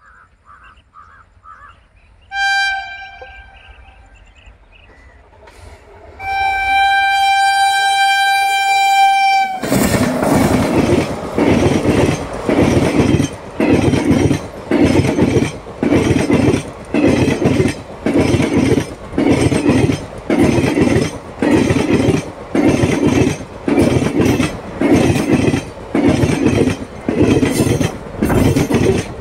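Electric locomotive's air horn sounding a short blast, then a long steady blast of about three seconds as the train approaches. Then the Indian Railways express coaches run close past with loud wheel clatter over the rail joints, beating a little faster than once a second.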